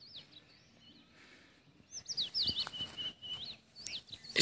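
Small birds calling in the morning: quiet for about two seconds, then a quick run of whistled notes that sweep up and down, followed by a short held note, and one more call near the end.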